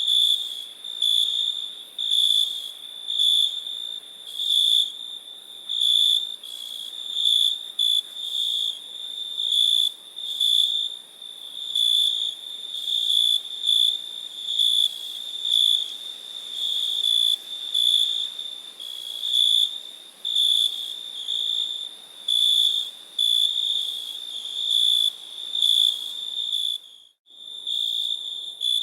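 Crickets chirping: a steady high trill with louder chirps swelling about once a second. It breaks off briefly near the end, then resumes.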